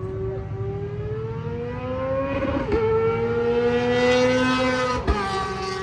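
Motorcycle engine accelerating hard, its pitch climbing and dropping sharply twice as it shifts up a gear.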